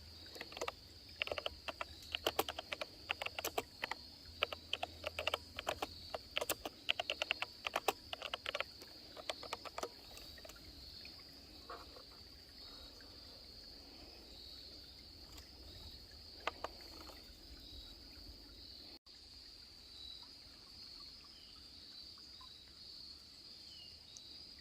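A steady high-pitched insect chorus, with a dense run of irregular sharp clicks over the first nine seconds or so and a few more near the middle.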